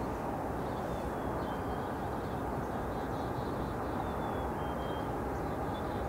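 Diesel-hauled intermodal freight train approaching, heard as a steady low rumble and hiss that holds level throughout. Small birds chirp faintly above it.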